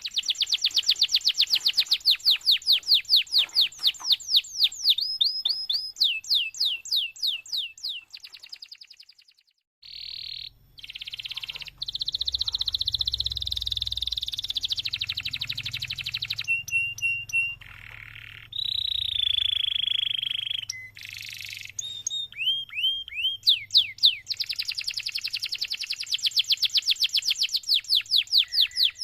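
Domestic canary singing a long song made of fast trills of rapidly repeated sweeping notes. The trills change pace and pitch from one phrase to the next, with a few held notes in the middle. The song breaks off briefly about nine seconds in, and a faint low hum sits under the middle part.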